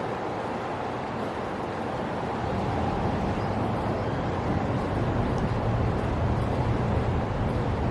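Steady outdoor background rumble with a traffic-like hum, slowly growing a little louder through the second half.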